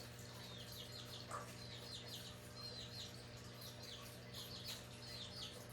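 Faint bird chirping: many short, quick falling chirps repeating throughout, over a low steady hum.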